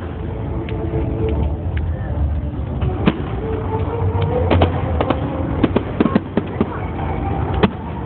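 Fireworks going off: a quick series of sharp cracks and bangs, thickest from about three seconds in, over a steady low rumble and background voices.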